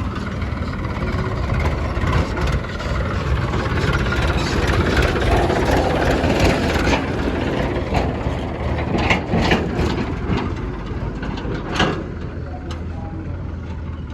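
Heavy diesel engines of a tractor and a JCB backhoe loader running steadily. Midway there is a rush of scraping and clatter, then a few sharp knocks, as soil is loaded.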